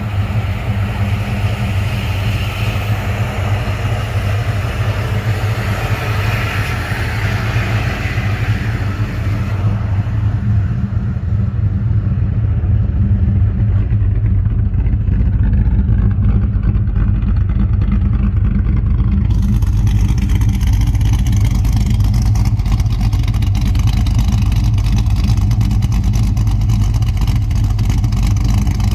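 Holden VX's LS1 V8, fitted with a Brian Tooley NSR cam and stiffer valve springs, idling steadily on its first run after the cam swap, still untuned. It breathes through pacemaker headers, high-flow cats and a 2.5-inch catback.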